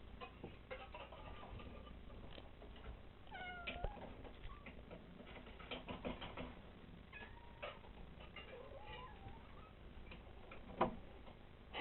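Several cats meowing repeatedly, waiting to be fed, with scattered light clicks and a sharp knock near the end.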